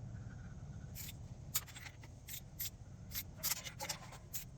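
Socket wrench on a 14 mm socket ratcheting on exhaust manifold nuts: a run of short, irregular metal clicks, several a second, starting about a second in, over a steady low hum.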